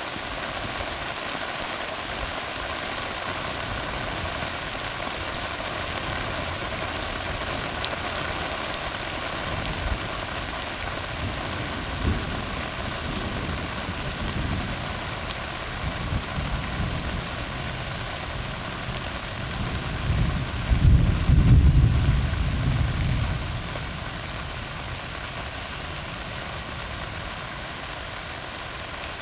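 Steady rain falling on a tar road, with thunder rumbling low from about the middle and loudest for a few seconds about two-thirds of the way through.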